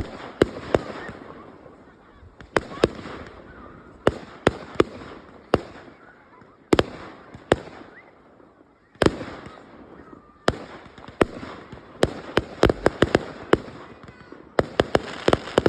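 Fireworks display: aerial shells bursting in a string of sharp bangs, each trailing off in an echo. They come every half second to a second and a half, then in quick rattling clusters over the last few seconds.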